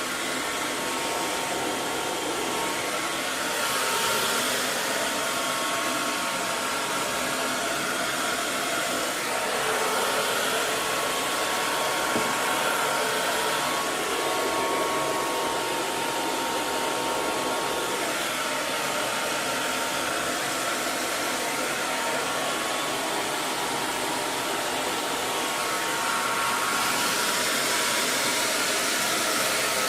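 Hair dryer blowing steadily, a continuous rush of air with a faint whine of the motor running under it.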